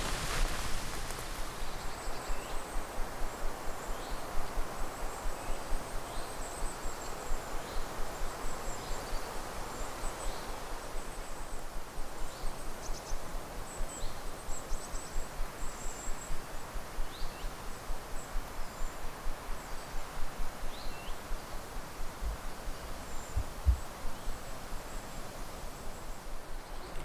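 A steady rustling crunch of travel along a forest path, pulsing about twice a second, with small birds chirping faintly above it.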